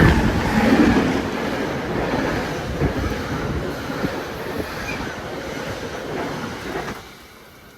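A passing train, its wheels clattering over the rails, slowly fading as it moves away.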